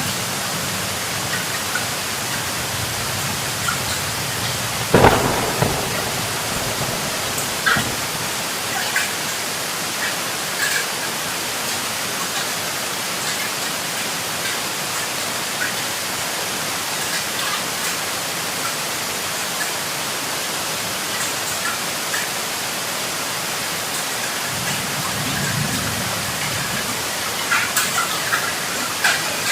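Heavy rain pouring steadily, with a sharp thunderclap about five seconds in, low rolls of thunder near the start and again near the end, and scattered drops ticking on a surface.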